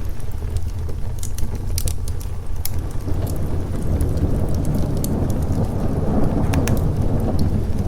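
Steady rain over a deep rumble, with a roll of thunder swelling from about three seconds in and easing off near the end. Sharp crackles and pops from a wood fire are scattered over it.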